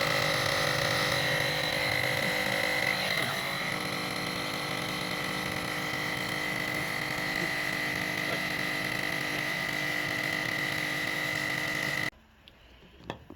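Small battery-powered electric air pump running with a steady high whine as it blows dust out of a clogged vacuum cleaner filter; it switches off abruptly about twelve seconds in.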